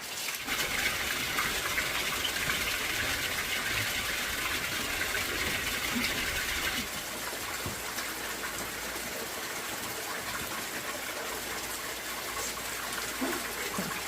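Steady rush of running or gushing water, brighter and louder for the first seven seconds or so, then easing a little.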